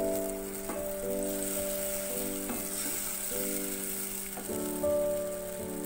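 Masala paste sizzling in hot oil in a pan, under background music of held chords that change about every second.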